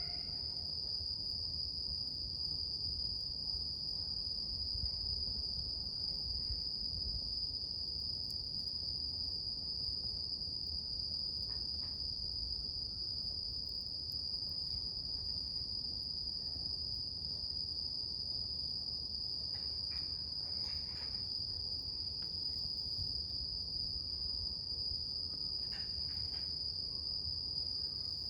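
Insects trilling in one steady, unbroken high-pitched note, over the low rush of a campfire with a few faint pops from the burning wood.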